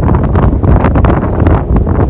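Strong wind buffeting the microphone: a loud, low rumbling roar with constant crackle.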